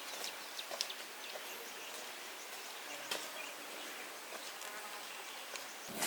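Insects buzzing over a steady outdoor background, with a few faint ticks.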